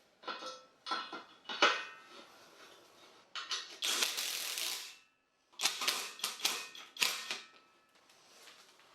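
A run of sharp clicks and knocks, mechanical handling sounds, with a burst of noise about a second long near the middle.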